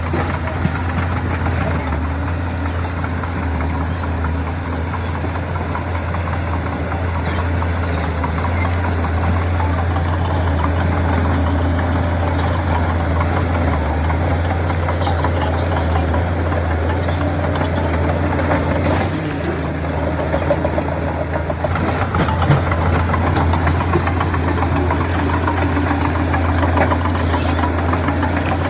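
Heavy diesel earthmoving machinery running steadily, with a strong low engine drone and a few short knocks.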